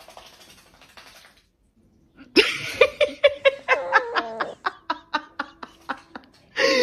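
A person laughing hard in a long run of quick, rapid bursts that begins about a third of the way in, after a few faint breathy sounds.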